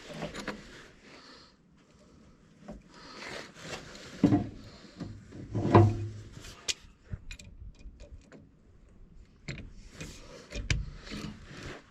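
Hand-tool work on truck battery cable connections: irregular metal clicks, knocks and rubbing, with two heavier thumps about four and six seconds in.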